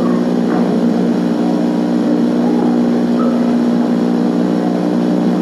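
A steady, loud low hum drones without a break, with a few faint, indistinct voices above it.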